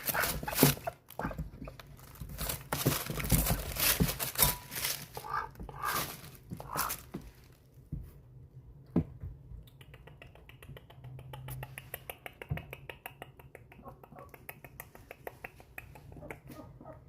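Ducks making squeaky, clicking sounds. Loud sharp clicks and short calls fill the first seven seconds; after a brief lull, a fast, even run of quieter ticks continues to the end.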